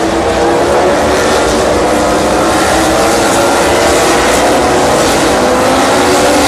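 A vehicle engine pulling steadily, its pitch rising slowly throughout, over a loud rushing hiss; it cuts off suddenly near the end.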